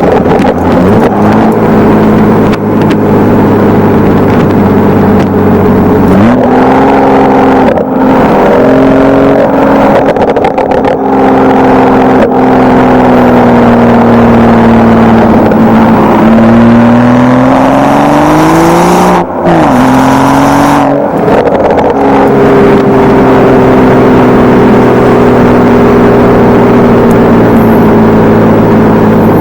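BMW 335i's N55 turbocharged straight-six running through a Wimmer stainless-steel aftermarket exhaust, 3-inch from the catalytic converter, while driving in sport mode. The engine note holds steady, jumps up in pitch about six seconds in, climbs again from about seventeen seconds, drops abruptly at a gear change about nineteen seconds in, then settles into a steady drone.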